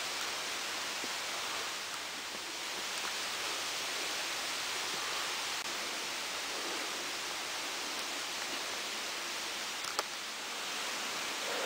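Waterfall rushing: a steady, even hiss of falling water, with a brief click about ten seconds in.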